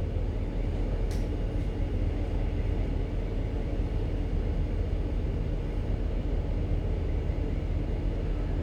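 Ship's engine and machinery running with a steady low rumble and hum during slow berthing manoeuvres.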